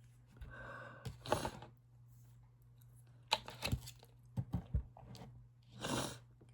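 Close-up chewing and crunchy bites of a brownie in irregular clusters, with a couple of short breathy noises, the longest near the end.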